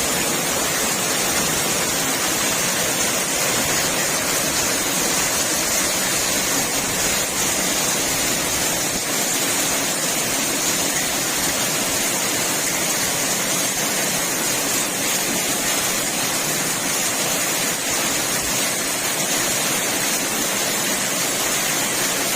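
Heavy rain pouring down steadily, mixed with rainwater rushing over the street as it overflows toward the drains.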